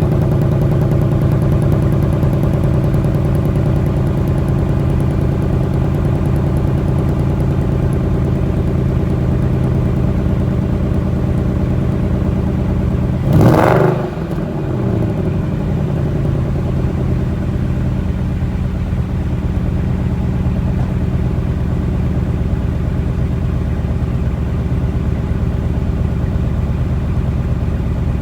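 Ford Mustang GT PP1's 5.0 V8 idling steadily just after a cold start. About halfway through there is a brief loud rush, after which the engine note drops back down.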